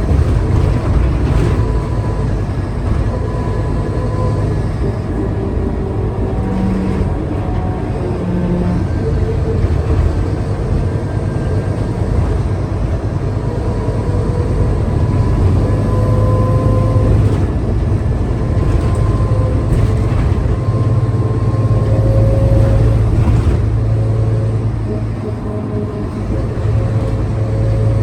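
Scania K320UA city bus running under way, a steady low engine and drivetrain sound whose whine drifts up and down in pitch as the bus speeds up and eases off.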